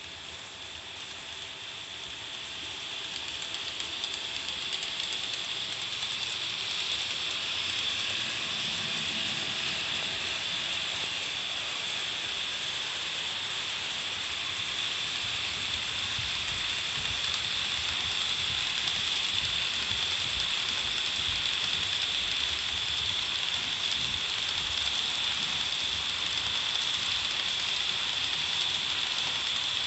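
Model railway freight train, a TOMIX EF210 locomotive hauling Koki 100 container wagons, running on layout track. Its small wheels on the rails make a steady fine rattle that grows louder over the first several seconds as the train comes nearer, then holds.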